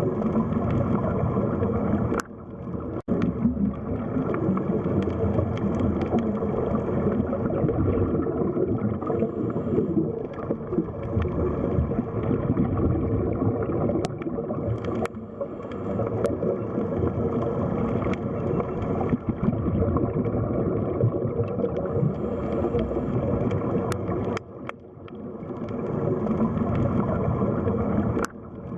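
Underwater sea ambience: muffled, churning water noise with gurgling, swelling and falling, with a brief dip about two seconds in and another near the end, and a few sharp clicks.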